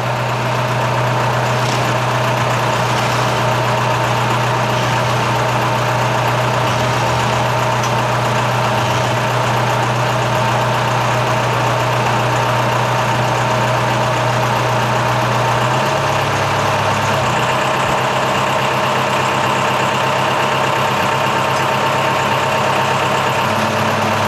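The catamaran's Mercedes OM636 diesel engine running steadily under way, a low, even hum with a few steady higher tones; its note drops a little about sixteen seconds in.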